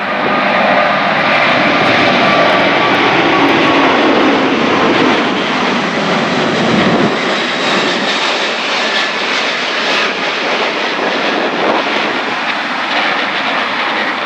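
Emirates Airbus A380's four jet engines at takeoff thrust: a loud, continuous roar with a whine falling slowly in pitch over the first few seconds. The deep rumble drops away about halfway through, while the roar carries on.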